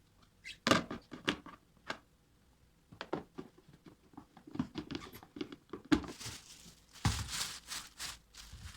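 Hands handling objects: a few sharp clicks and taps, then from about six seconds in a dense crinkling and rustling, as of plastic packaging being handled or torn.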